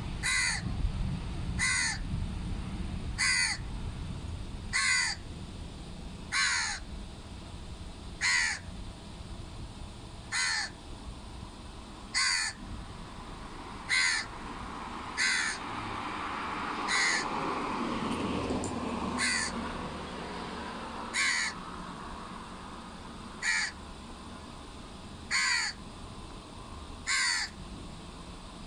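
A bird calling over and over, one short call about every one and a half to two seconds, over a low rumble of distant jet engines in the first few seconds. A rush swells and fades about two-thirds of the way through.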